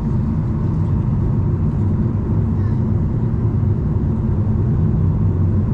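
Steady low drone of a Boeing 737-800's jet engines heard inside the passenger cabin, with a faint whining tone above the rumble.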